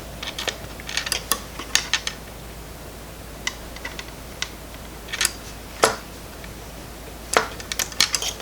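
Scattered light clicks and taps of small parts and tools being handled on a workbench, a quick run of them about a second in and a few single ones later.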